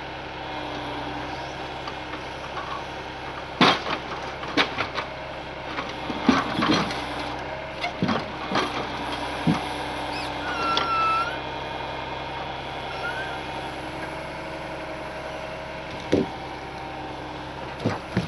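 Ural truck engine idling steadily, with a scatter of sharp irregular knocks and cracks over it and a brief squeal about halfway through.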